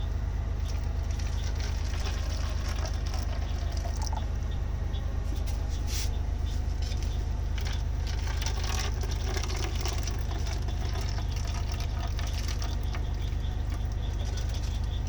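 Hot mushroom tea poured from the pot into cups, trickling and splashing, over a steady low rumble.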